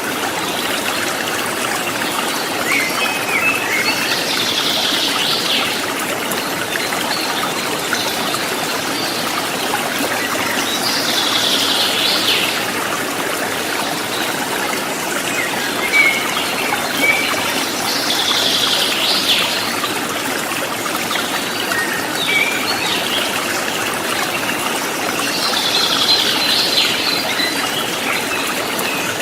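Water of a rocky river flowing and splashing steadily over stones, with a bird singing a short phrase about every seven seconds, four times, and a few softer chirps between.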